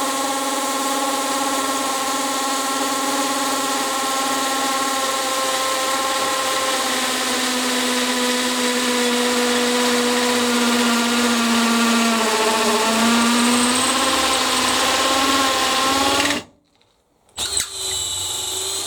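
Makita XPH06 18 V brushless hammer drill running in hammer mode on high gear, boring a 16 mm hole into masonry block, above the drill's 13 mm rating. Its motor pitch sags as it slows under the load toward the end, then it stops suddenly and runs again briefly.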